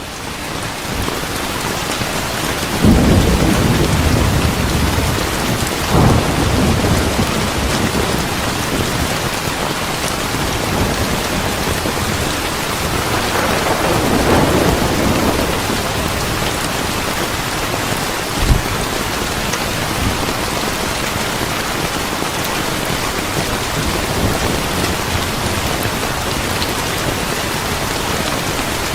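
Steady heavy rain, with deep rolls of thunder swelling about three seconds in, again around six seconds, and a longer one around fourteen seconds, plus a short low thump a little later.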